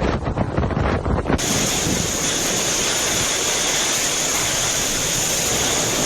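Gusting wind buffeting the microphone, then, about a second and a half in, an abrupt switch to the steady, even hiss of heavy storm rain.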